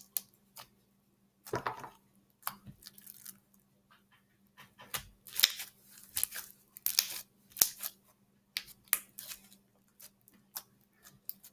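Homemade slime being squished and stretched by hand, giving an irregular run of short pops and crackles that is busiest and loudest in the middle.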